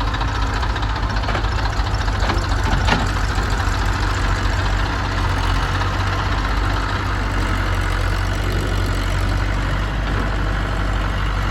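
Diesel engine running steadily at idle, with a few faint sharp knocks about two to three seconds in.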